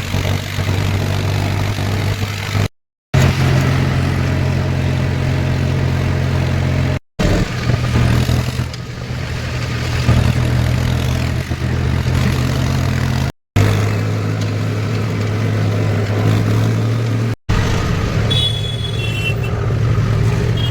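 Tractor's diesel engine running steadily while hauling a trolley loaded with soil, with its deep hum broken by a few short gaps where the clip is cut.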